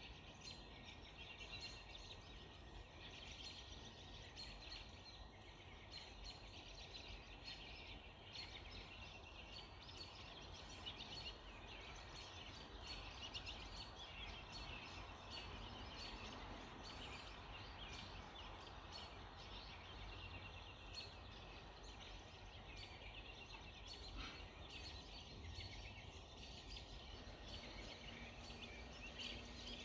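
Chorus of many small songbirds chirping and singing at once, a dense, unbroken tangle of high calls, over a faint low background rumble.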